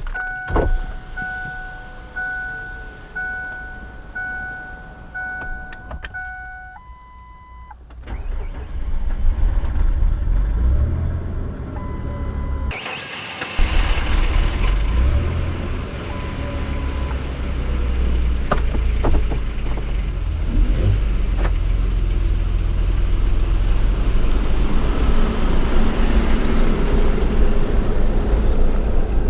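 Dashboard warning chime beeping about once a second, then the 1999 Ford Explorer's 4.0-litre SOHC V6 cranks, starts and runs loudly. Its passenger-side rear timing chain cassette has failed.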